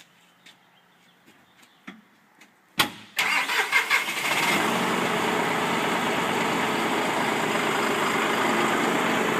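A few faint clicks, then about three seconds in a John Deere 5E tractor's three-cylinder diesel engine is cranked and catches, settling into a loud, steady run.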